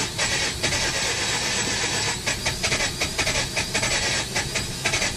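Mazda RX-8's flooded twin-rotor Renesis engine being cranked on the starter, turning over hard with irregular sharp cracks but not running on its own.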